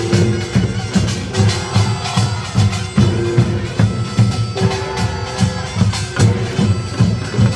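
Korean nongak farmers' band playing: drums (janggu and buk) and small gongs (kkwaenggwari) beat a fast, driving rhythm while a taepyeongso shawm plays long held notes over them.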